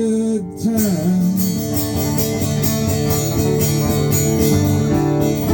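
Acoustic guitar strumming chords through the closing bars of a song, with a brief drop in level about half a second in.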